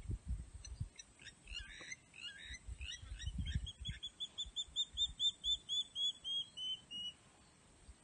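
A bird calling: a few scattered chirps, then a quick run of about a dozen clear repeated notes, roughly four a second, that slow slightly, dip in pitch and fade near the end.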